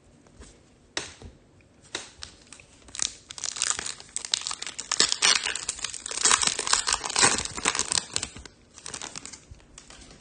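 Foil trading-card pack wrapper being torn open and crinkled by hand: a dense run of crackling from about a second in, busiest in the middle and thinning out near the end.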